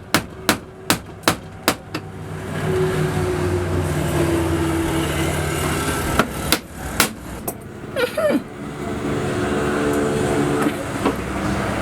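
A quick series of sharp knocks, about two and a half a second, like hammering, then a motor vehicle's engine running steadily, with two more knocks partway through.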